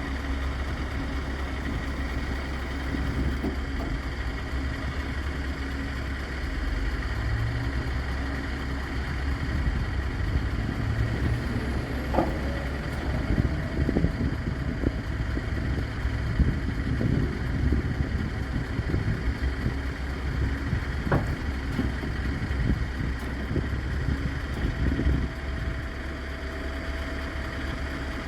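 Scania R580 truck's V8 diesel engine idling steadily, with a couple of sharp knocks.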